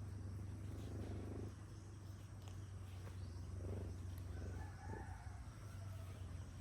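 Steady low hum, with a distant rooster crowing once, drawn out, from about four seconds in.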